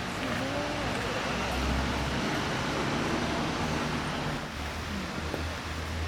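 Outdoor ambience: a steady hum like distant traffic with a low rumble, and a few faint voices in the background.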